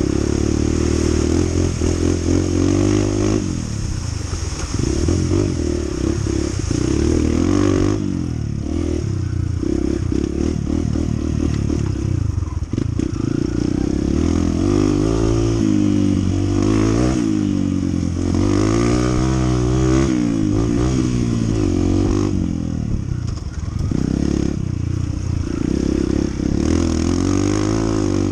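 Honda CT125's small single-cylinder four-stroke engine running under way, its pitch rising and falling again and again with the throttle and gear changes, with knocks and rattles from the bike over the ground.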